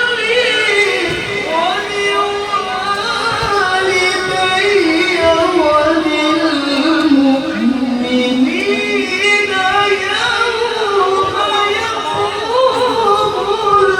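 A male Quran reciter (qari) singing one long, ornamented melodic phrase of tilawah recitation. The voice slides down in pitch through the middle and climbs back up about two-thirds of the way in.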